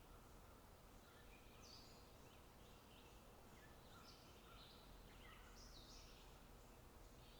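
Faint birdsong: many short, chirping calls, some stepping down in pitch, sound throughout over a low, steady background rumble.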